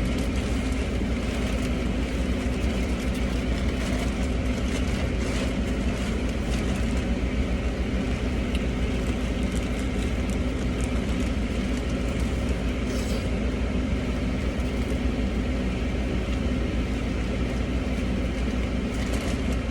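Steady hum of a car idling, heard from inside the cabin, with a few faint clicks over it.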